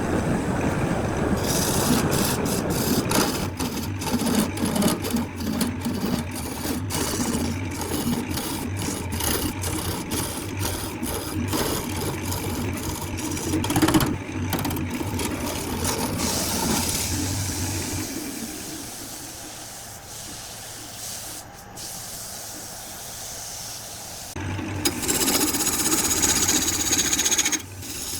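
Workshop tool noise, scraping and rubbing on wood, broken up by several abrupt cuts. It drops quieter about two-thirds of the way through, then comes back louder near the end.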